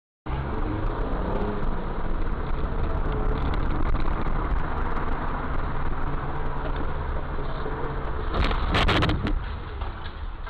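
Dash-cam recording from inside a moving car: steady engine and road rumble, with a sudden loud, harsh noise lasting under a second about eight and a half seconds in.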